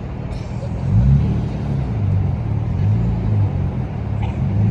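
A car engine running with a low, steady note that grows louder about a second in.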